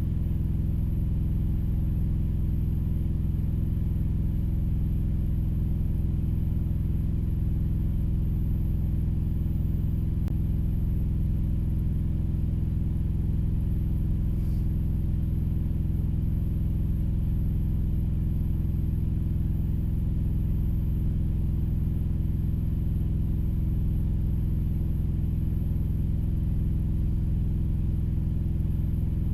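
A vehicle engine idling steadily, heard from inside the cab: an even low rumble that holds the same pitch and loudness throughout.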